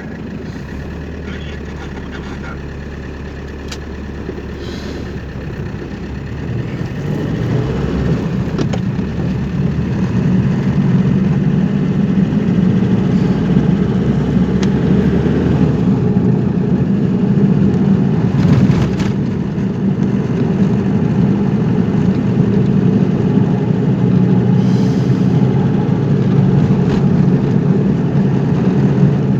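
A car being driven: steady engine and road noise, growing louder over the first ten seconds or so and then holding steady.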